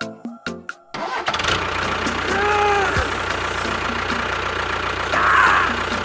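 Background music for about the first second, then a motor running steadily with a low hum. A brief rising-and-falling tone sounds in the middle, and a short louder burst comes near the end.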